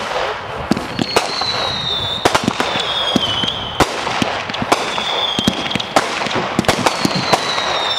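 Fireworks going off in quick succession, with many sharp cracks and pops and, every second or two, a whistle that falls slightly in pitch. Just before the middle, a heavier thump comes as an aerial shell is fired from its mortar tube.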